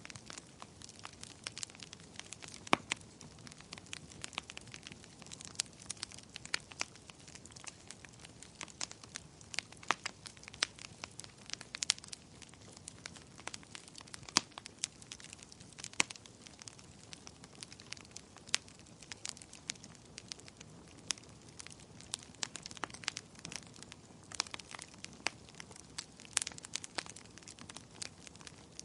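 Fireplace fire crackling: irregular sharp pops and snaps, a few much louder than the rest, over a soft steady hiss.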